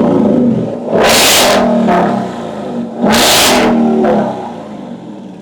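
Ford Mustang GT's 5.0 V8 revved through its exhaust: two sharp blips, about a second in and about three seconds in, each dropping back, with the engine settling lower near the end.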